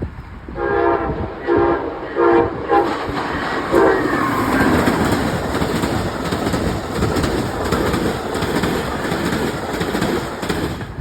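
A train sounds a series of short horn blasts, the last sliding down in pitch as it comes past, then rushes through the station with a loud, steady noise from its cars that drops away near the end.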